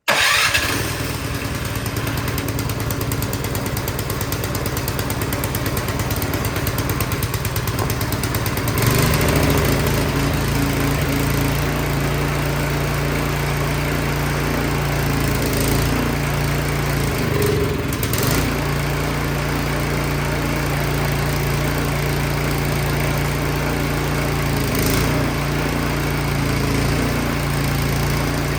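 Craftsman 22-inch snowblower's small four-stroke engine starting on choke and running steadily after a no-start repair. About nine seconds in the engine note picks up and gets louder, with a brief dip a little later before it settles back into an even run.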